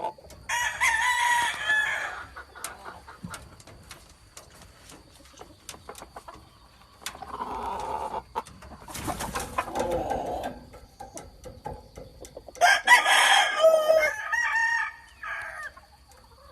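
Gamefowl roosters crowing, three crows spread out with the loudest near the end, with some clucking between them.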